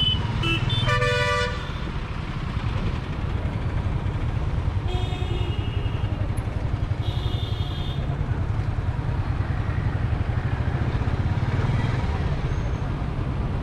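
Steady low rumble of a motorcycle being ridden through traffic, with vehicle horns honking: near the start, about five seconds in, and again about seven seconds in.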